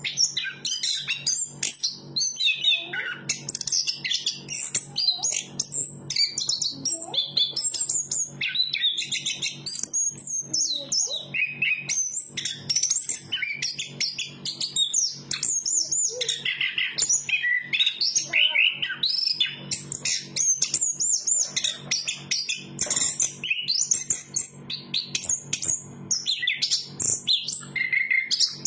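Chestnut-capped thrush (anis kembang) singing a continuous, varied song of rapid high whistled phrases without pause, over a low steady hum.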